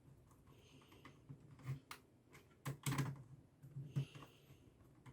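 Light, irregular clicks and taps of hand work on small parts, most likely connecting the PLC's L and N power wires to its terminals, with two brief scraping sounds about one second and four seconds in.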